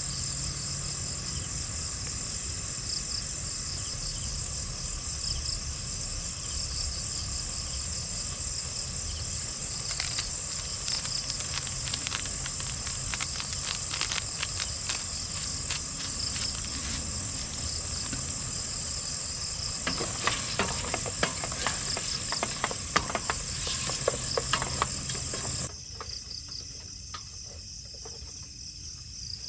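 A steady, high-pitched chorus of insects, with scattered crackling clicks through the middle stretch. The background changes abruptly a few seconds before the end, and the insect sound carries on.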